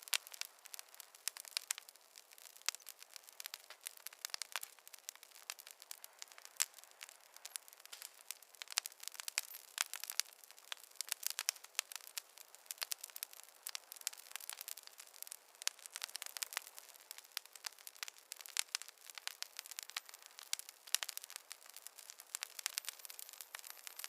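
Wood fire crackling: many sharp pops and snaps, irregular and close together, over a faint steady hiss, with no low rumble.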